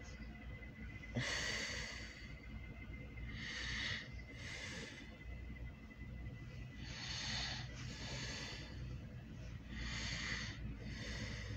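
A person breathing close to the microphone, soft breaths in and out in pairs about every three seconds, over a faint steady low hum.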